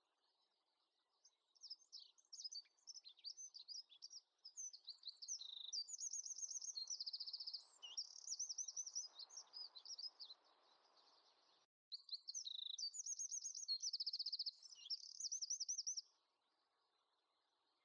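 A small songbird singing: quick high chirps and rapid trills, breaking off for a moment about two-thirds through and stopping near the end.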